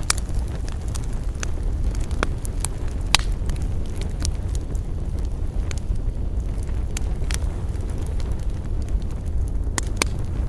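Wood campfire crackling: irregular sharp pops and snaps over a steady low rumble, with one louder pop about three seconds in.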